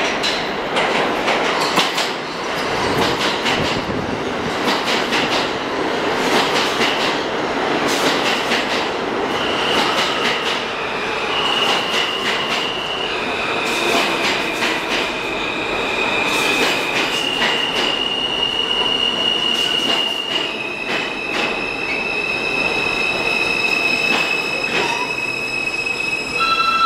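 R160 subway train pulling into a station: steel wheels clack over the rail joints throughout. From about a third of the way in, high-pitched wheel squeal sets in and shifts between pitches, and near the end several squeal tones sound at once.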